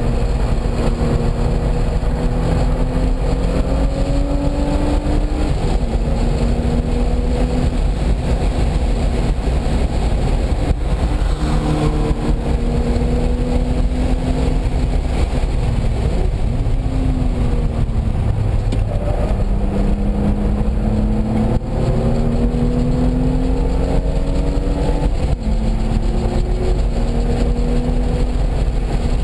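A car engine being driven hard: its note climbs, then drops, again and again as it shifts gears and lifts off, over a steady heavy rumble of wind and road noise.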